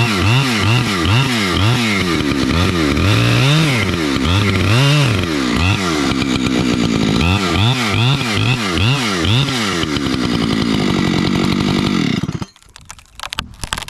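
Chainsaw cutting through a large dead gum trunk, its engine pitch rising and falling over and over as the bar works the cut. About twelve seconds in the saw drops away abruptly, leaving a few faint knocks.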